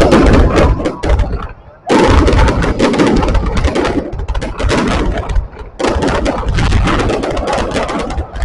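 New Year fireworks going off in dense, rapid crackling bursts with low thuds. They ease off briefly about a second in, then pick up again.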